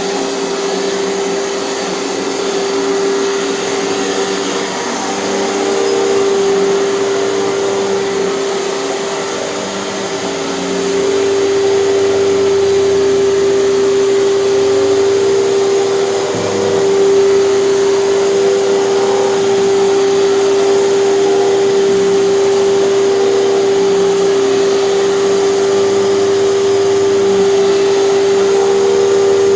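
Hoover canister vacuum running with a power nozzle: a steady motor whine over a rushing air noise, growing louder about ten seconds in.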